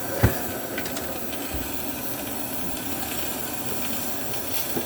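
A steady hiss, with one short click about a quarter second in.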